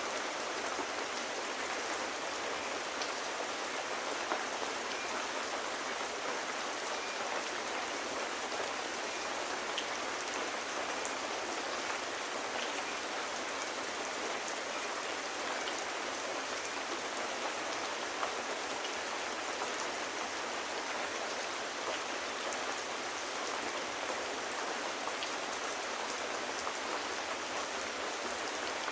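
Steady rain falling: an even hiss with faint scattered ticks of drops, unchanging throughout.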